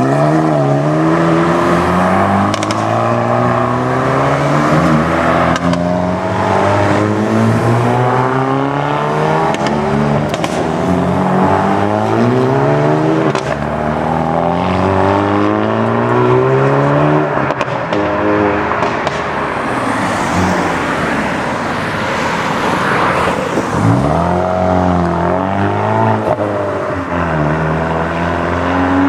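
Hyundai i30N's 2.0-litre turbocharged four-cylinder engine being revved over and over, its pitch rising and falling, with sharp exhaust crackles between revs. About three quarters of the way through the revs drop, then climb quickly again.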